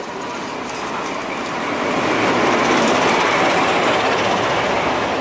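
A diesel-hauled passenger train running past close by along a station platform. The wheel and coach noise builds to a steady loud level about two seconds in as the carriages go by.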